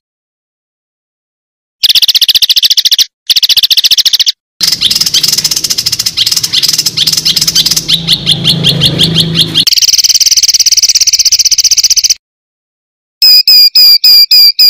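Recorded songbird calls from a masteran training track: rapid, rough, high trills broken by abrupt cuts to silence, then a run of loud, sharp repeated chirps about four a second near the end.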